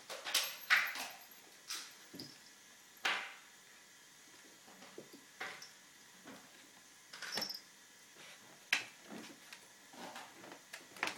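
Staffordshire bull terrier puppy rummaging among toys in her crate: scattered knocks, clatters and rustles at irregular intervals, with a cluster of louder ones in the first second.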